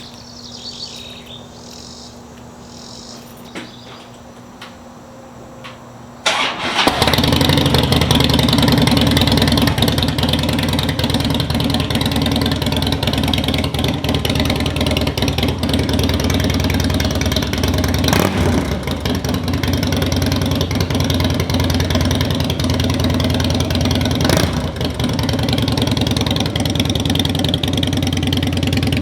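Harley-Davidson Night Train's V-twin engine starting about six seconds in, then running steadily and loudly through newly fitted Vance & Hines Big Shots staggered exhaust pipes.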